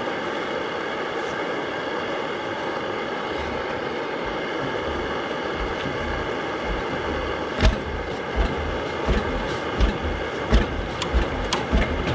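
McDonald PB two-stroke 'super diesel' engine: a steady hiss and hum, then from about a third of the way in irregular low thumps that come closer together and sharper toward the end, as the engine starts firing.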